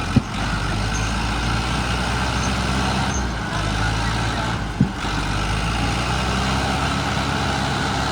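Tractor diesel engine running steadily at an even speed, with two sharp knocks, one just after the start and one about five seconds in.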